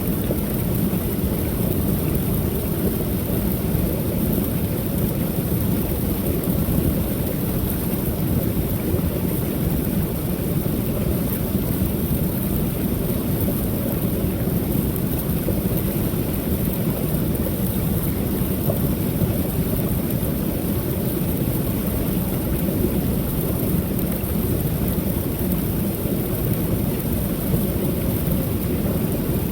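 Creek waterfall pouring steadily, a continuous low rushing of falling water.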